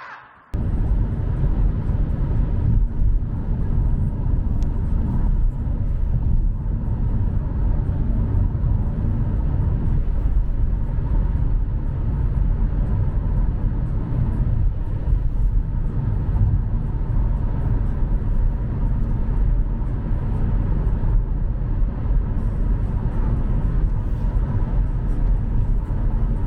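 A loud, steady low rumble that cuts in abruptly about half a second in and carries on unbroken.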